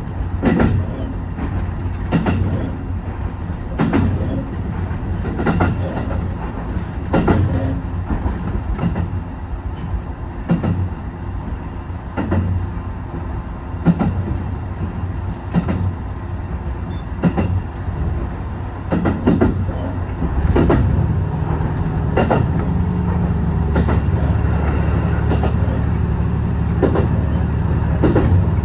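HB-E210 series hybrid diesel train running on jointed track: a sharp wheel click over a rail joint about every 1.7 seconds over a steady low running hum. About twenty seconds in, a deeper steady drone comes in and holds.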